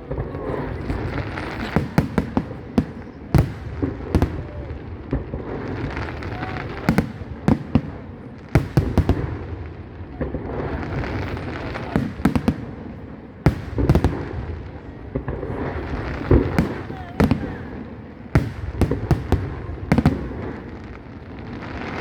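Aerial fireworks display: many sharp bangs in rapid, irregular succession, bunched into volleys every few seconds.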